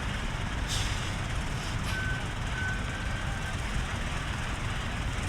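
Large truck engine idling, a steady low rumble, with two short hisses about a second apart and a faint thin beep-like tone in the middle.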